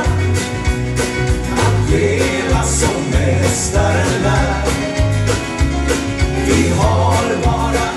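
Band playing an upbeat gospel song, with bass and drums keeping a steady beat.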